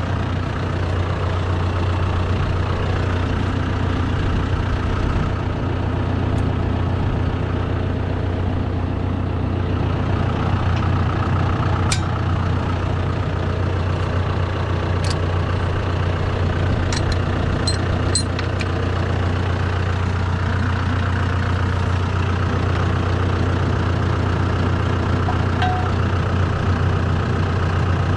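John Deere 5100E tractor's diesel engine running steadily at a low, even speed, with a few light clicks about halfway through.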